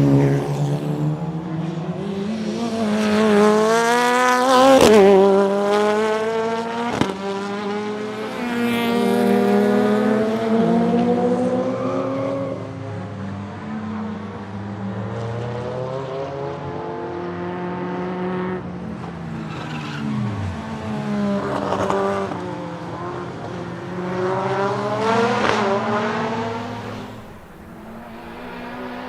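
Turbocharged BMW S14B20 four-cylinder race engine in a BMW E36 time attack car, revving hard through the gears, its pitch climbing again and again. Sharp cracks come about five and seven seconds in, and the pitch falls away steeply about two-thirds of the way through.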